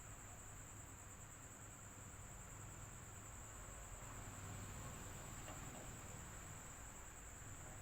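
Faint electric fan running steadily: a low hum under an even rush of air, with a thin, steady high whine on top.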